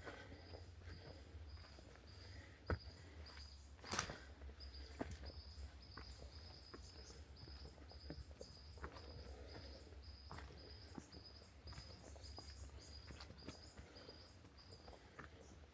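Faint forest ambience: a high chirp repeating evenly about three times a second, stopping about a second before the end, over a low steady rumble. Scattered sharp clicks of footsteps on the trail, the loudest about four seconds in.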